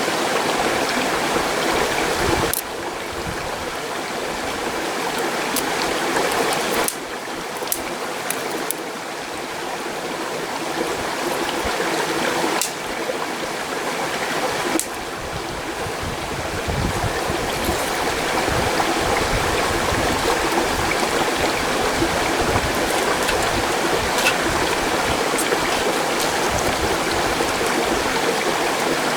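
Mountain stream rushing steadily, a loud even water noise, with a few faint sharp clicks over it.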